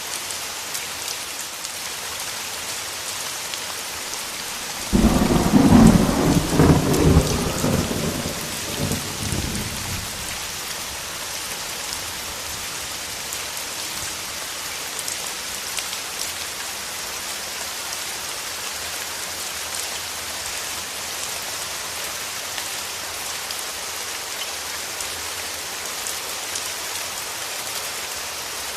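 Steady rain with a sudden thunderclap about five seconds in, rumbling for several seconds before dying away into the rain.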